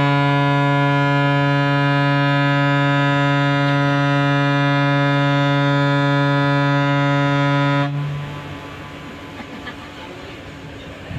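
A ship's horn holding one long, deep, steady blast that stops about eight seconds in, followed by fainter harbour background noise.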